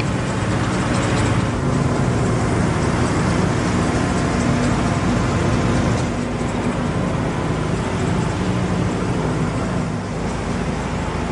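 Mazda RX-7's 1.3-litre twin-turbocharged rotary engine idling steadily, with an even hiss over a low hum.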